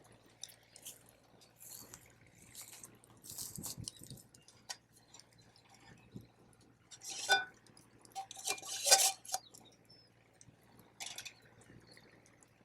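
Camp cookware being handled: scattered light clicks and scrapes, with louder ringing metal clinks about seven seconds in and again around nine seconds in.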